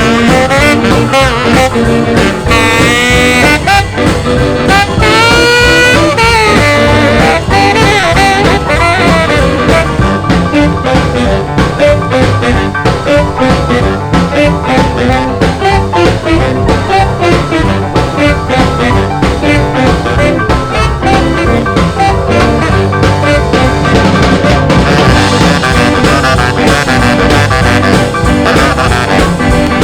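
An instrumental stretch of a rhythm-and-blues record with horns over a steady swing beat, played from vinyl. A horn line with wavering pitch stands out a few seconds in.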